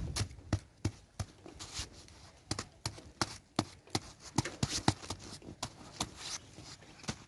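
Crisp, irregular crunches and taps of snow and ice being scooped and packed by hand, a few strikes a second.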